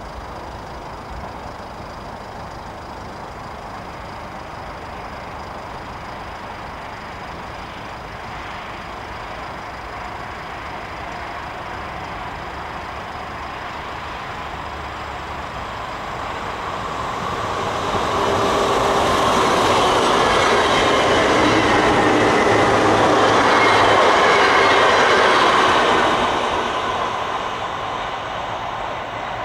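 NS Koploper (ICM) electric multiple unit passing on the line: the sound of its wheels on the rails grows over several seconds as it approaches, stays loud for about eight seconds as it goes by, then fades as it draws away.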